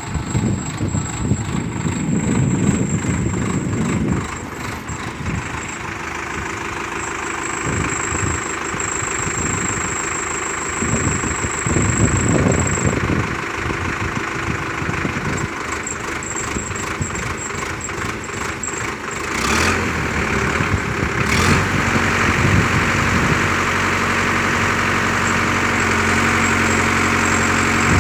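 Sonalika tractor's diesel engine running, its pitch and loudness changing unevenly. Two sharp knocks come about two-thirds of the way through, then the engine settles into a steady, even run near the end.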